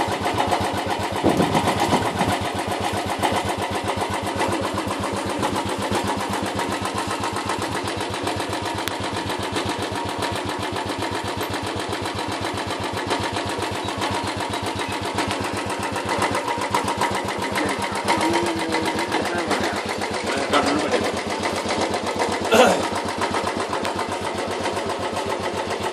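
Royal Enfield single-cylinder motorcycle engine idling with a steady, rapid beat, and a brief knock about three-quarters of the way through.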